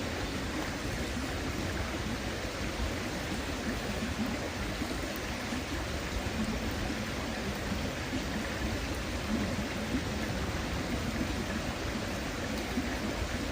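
River water babbling steadily, a constant rush of flowing water.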